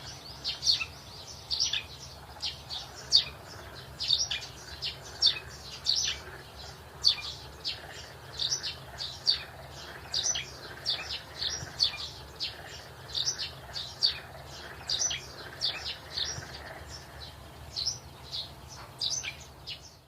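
Small birds chirping: a steady run of short, high, downward-sweeping chirps, several a second.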